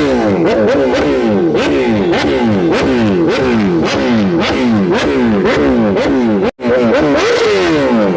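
Motorcycle engines revved over and over in quick throttle blips, the pitch jumping up and sliding down about three times a second, several bikes overlapping. The sound cuts out for an instant about six and a half seconds in.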